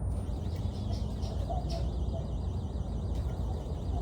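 Faint bird calls over a steady low rumble.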